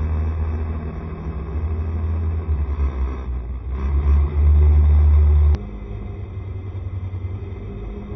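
Ride noise from a Honda SCR110 scooter under way: engine and road noise under a heavy low rumble. The rumble drops away suddenly with a click about five and a half seconds in.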